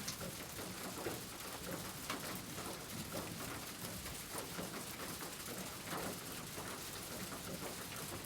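Steady rain falling, with scattered louder drops standing out now and then.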